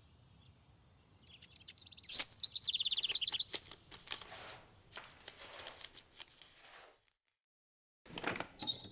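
A bird's rapid high chirping trill about two seconds in, followed by a run of light clicks and taps, then a short high twitter near the end.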